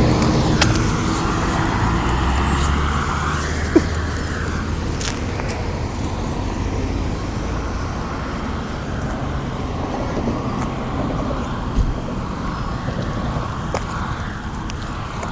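Road traffic noise: cars and engines running steadily, with a low engine hum in the first few seconds and a couple of brief clicks.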